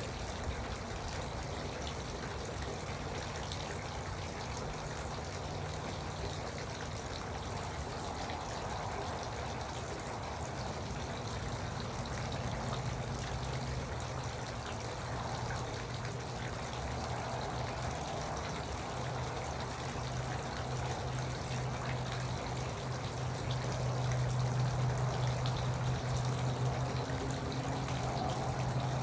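Garden water fountain trickling steadily, with a low hum underneath that grows louder in the second half.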